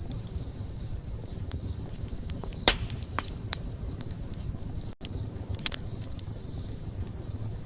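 Wood fire burning, with a steady low rumble of flame and scattered sharp crackles and pops, the loudest about two and a half seconds in.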